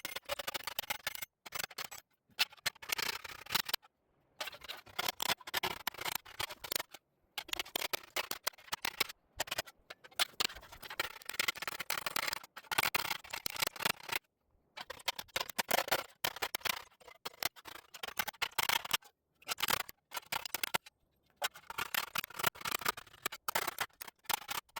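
Rapid runs of sharp metallic tapping from a hammer working the steel bird-bath bowl deeper, broken up by several abrupt silent gaps.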